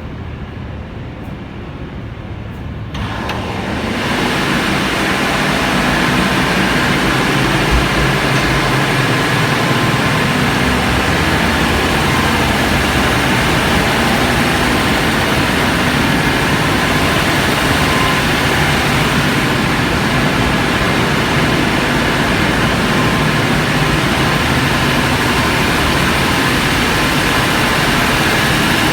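Engine-room machinery of the trailing suction hopper dredger Kalimantan II running steadily. A lower rumble for the first few seconds, then the full loud, even machinery noise swells in about three seconds in and holds.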